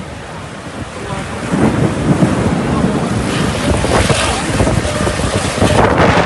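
Storm wind gusting over the microphone, a loud rushing noise with a low buffeting rumble that builds about a second and a half in.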